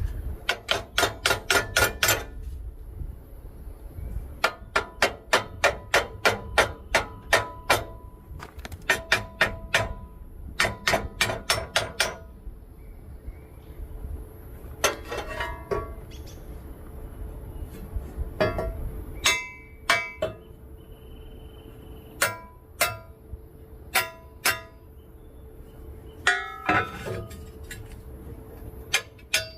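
Hammer tapping a steel angle-iron spacer into a control arm, metal on metal. Runs of quick ringing strikes, about five a second, stop and start again several times.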